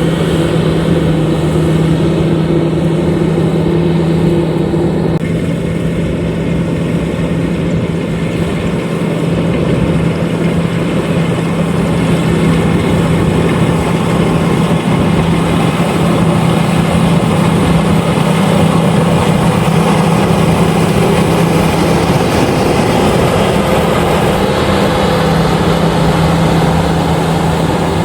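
Engine of a LOVOL RG130EVO rice combine harvester running steadily under work, a loud continuous drone with a strong low hum.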